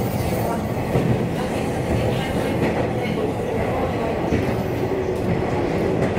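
JR 185 series electric train running at speed, heard from inside its driver's cab. Its wheels make a steady rumble on the rails.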